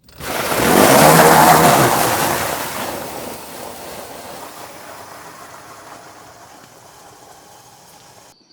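A vehicle going by close and moving away: the sound swells to its loudest within about a second, then fades slowly and cuts off abruptly near the end.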